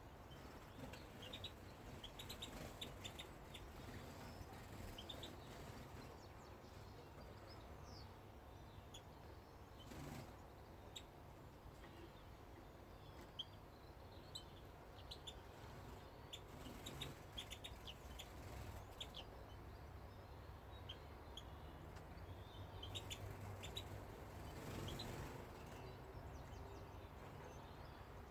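Small aviary birds chirping faintly: short, high calls scattered throughout, over a low background rumble.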